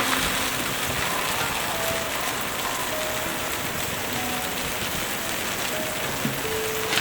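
Steady rain falling on a surface, an even hiss with no break.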